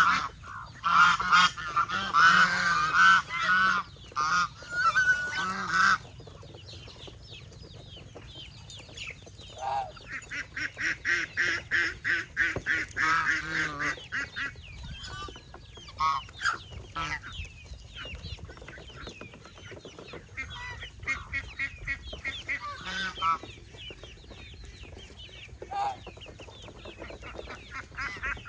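Domestic geese honking repeatedly. Loud honks come for the first several seconds, then a quieter stretch, then a fast run of calls partway through, with scattered honks after.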